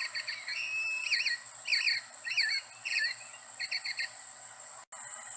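Motion-activated plastic toy robin playing its recorded chirping: quick runs of chirps broken by a short whistle, repeating phrase after phrase, stopping about four seconds in. A steady high-pitched hum runs underneath.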